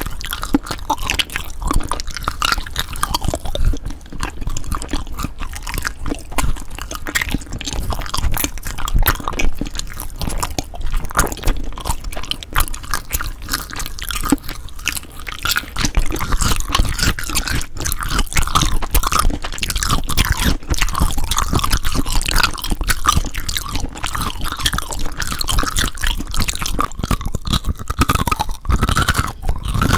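Close-miked ASMR crunching and crackling: a dense, continuous run of crisp small clicks.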